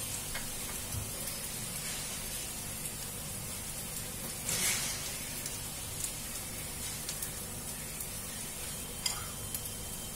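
Potato tikkis (aloo tikki) shallow-frying in oil in a non-stick pan, now on their second side: a steady soft sizzle with scattered small pops, and a short louder rush about halfway through.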